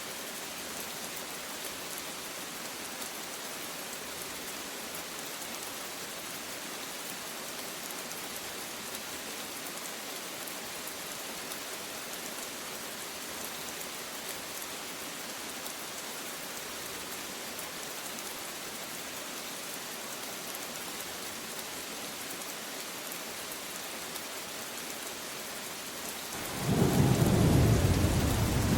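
Steady rain falling as an even hiss. Near the end a loud, low rumble of thunder rolls in over it.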